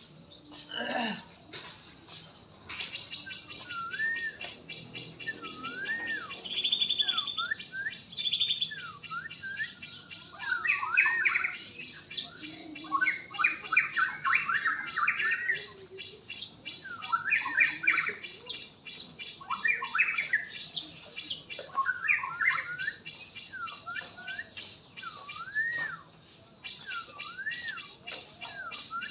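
Songbird calling: repeated short whistled notes that swoop up and down, mixed with louder bursts of chattering calls in the middle stretch, over a fast, even high-pitched ticking.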